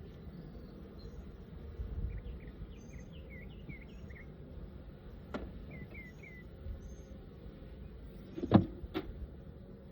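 Hive work: a few sharp clicks and one loud knock, as of a tool or frame against the wooden box, the knock the loudest, about three-quarters of the way through. Under them is a low steady hum, with two runs of short chirping birdsong.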